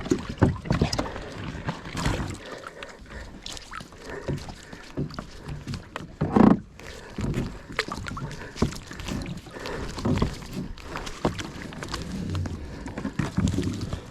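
Irregular knocks and clatter of gear against a kayak as it is handled on the water, with one louder thump about six and a half seconds in.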